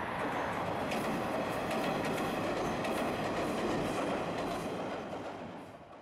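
Yellow two-car Isumi Railway diesel railcar crossing a steel girder bridge: a steady rumble of wheels on the rails with a run of clicks from the wheels over the rail joints. The sound dies away near the end.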